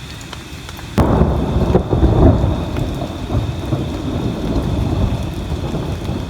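Thunder cracks suddenly about a second in and rumbles on loudly, over steady rain.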